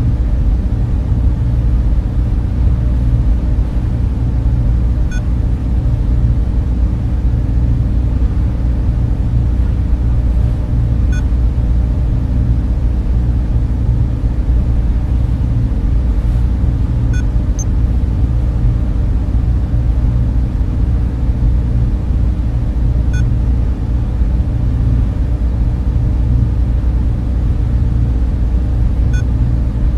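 Server room cooling fans running with a steady, deep, even rumble that has almost no high end. A faint short chirp sounds about every six seconds.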